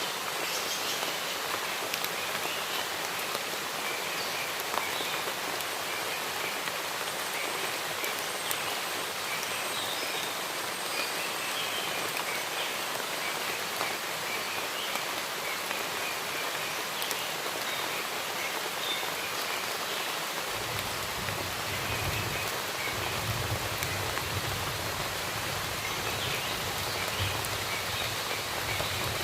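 Steady rain falling, with faint bird chirps. About two-thirds of the way in, a low rumble joins it.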